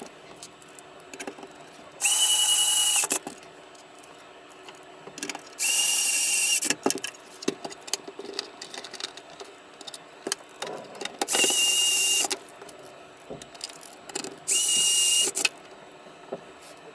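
A small electric tool runs in four short bursts of about a second each, giving a hiss with a steady high whine, with small clicks and handling noise between the bursts.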